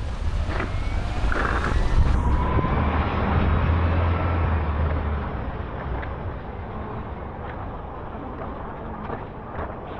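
Road and wind noise from riding an e-bike through city streets, with a low rumble that swells about a second and a half in and eases off after about five seconds.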